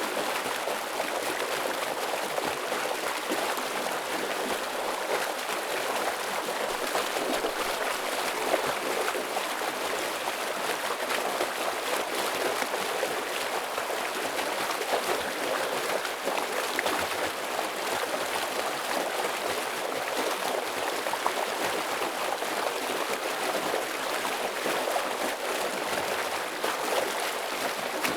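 Fast-flowing forest stream, water rushing and splashing over rocks in a steady, even rush.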